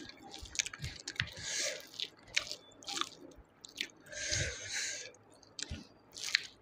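Close-up chewing of a mouthful of rice and snail curry: soft wet chewing with irregular lip-smacking clicks and a few short hissing mouth sounds, the longest about four seconds in.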